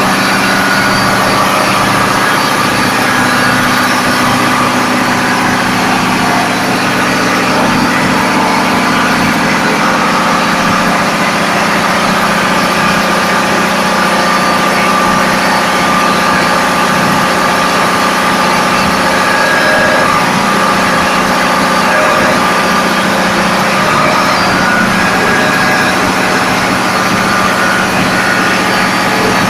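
Ship's engine-room machinery running loudly and steadily: the constant roar of diesel engines with a steady hum, no change in speed.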